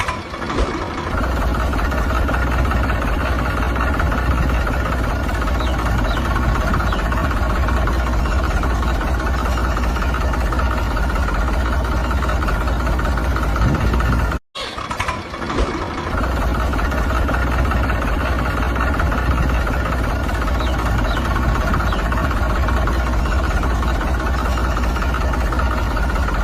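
A small motor running steadily with a low hum and a higher whine. It cuts out abruptly about halfway through and starts again a moment later.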